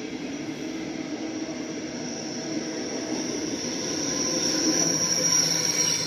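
DB Regio double-deck push-pull train passing at speed, with a steady rolling noise of wheels on rails. A high whine grows louder near the end as the electric locomotive at its rear comes by.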